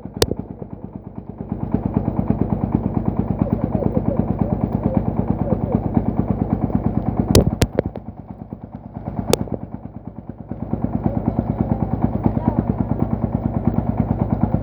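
Single-cylinder horizontal diesel engine of a công nông farm truck running with a fast, even chug. It gets louder about a second and a half in, eases off for a couple of seconds past the middle, then picks up again. Several sharp cracks stand out: one right at the start and three between about seven and nine and a half seconds in.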